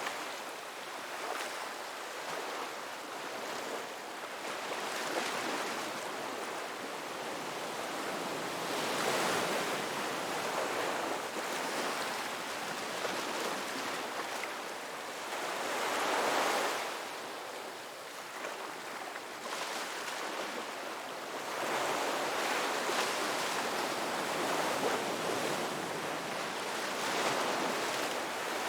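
Ocean waves breaking on a beach and washing back, in slow swells: louder crashes about 9 and 16 seconds in and again near the end, with a constant wash of surf between.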